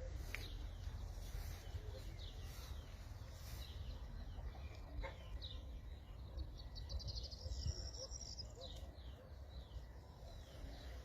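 Birds chirping: short high chirps scattered throughout, with a rapid trill of repeated high notes about halfway through, over a steady low rumble.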